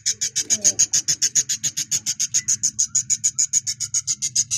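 Budgerigar in a clay-pot nest giving rapid, high-pitched calls at an even pace of about nine a second. It is the hen protesting at being disturbed on her eggs.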